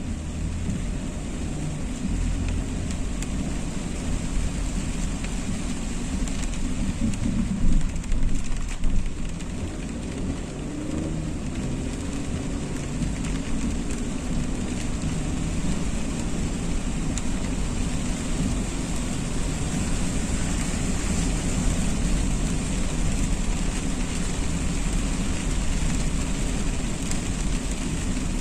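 Steady rain on a moving car, with low road and engine rumble underneath and a few brief louder bursts about eight seconds in.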